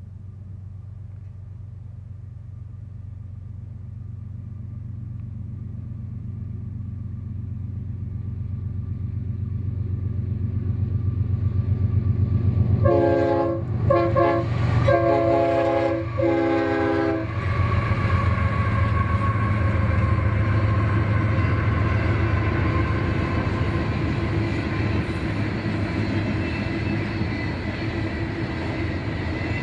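Train approaching with its diesel locomotives' rumble building, then its multi-tone air horn sounding four blasts about halfway through as it comes close. After the horn the loud, steady rumble of the train passing carries on.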